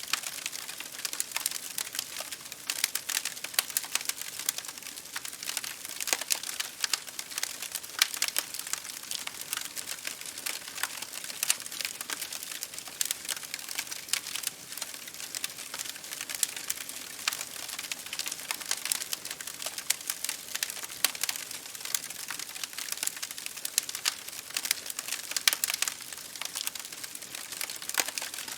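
Wood fire burning, with dense, irregular crackling and small pops over a steady hiss.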